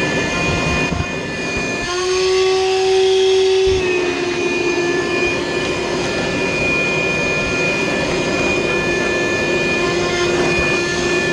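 Vacuum cleaner running steadily with a constant motor whine. Its pitch shifts and the sound gets briefly louder about two seconds in, then settles again.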